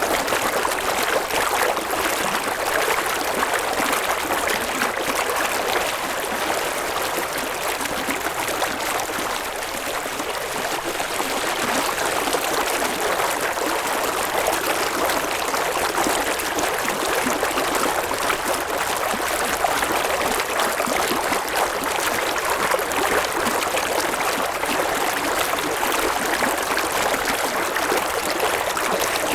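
A river flowing, its water running and babbling steadily without a break.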